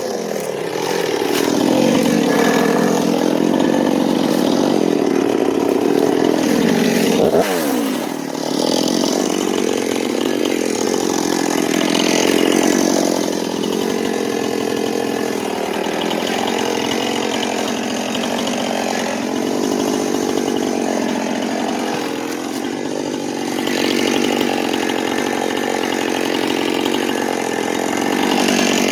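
Two-stroke chainsaw running under load, cutting dead ash wood, its engine pitch sagging and picking up again as the cut goes on. About seven seconds in, the pitch drops sharply for a moment, then the saw carries on.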